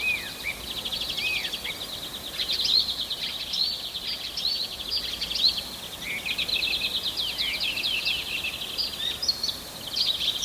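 Forest bird chorus: many birds chirping and calling at once, with fast, repeated trills and short arching whistles throughout.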